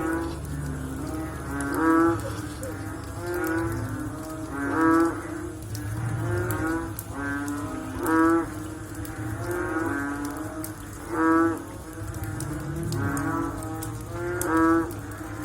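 Frogs calling after rain: overlapping low, pitched croaks repeating every second or so, with one louder caller about every three seconds, over a faint low steady background.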